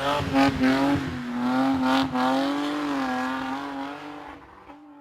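Hill-climb race car's engine running hard at high revs, its pitch wavering with the throttle, with a couple of sharp cracks. The note fades away near the end.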